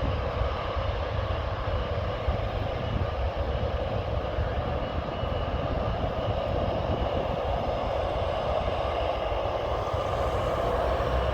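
Jet airliner engines running steadily in the distance, with wind buffeting the camera microphone. The engine noise swells slightly near the end.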